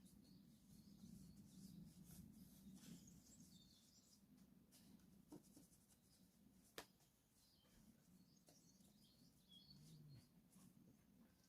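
Near silence: faint birds chirping, with a single sharp click about seven seconds in.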